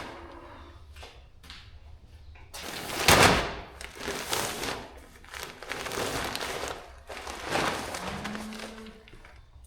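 Heavy sacks of feed being handled during unloading: a series of sliding, scraping swishes and thuds, the loudest about three seconds in.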